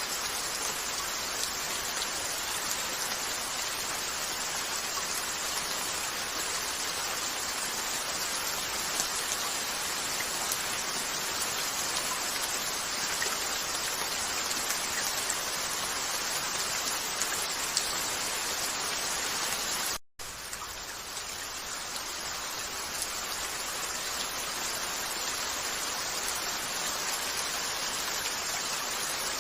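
Steady rain falling on a window. About two-thirds of the way through it cuts out for a split second, then comes back a little softer and gradually swells again.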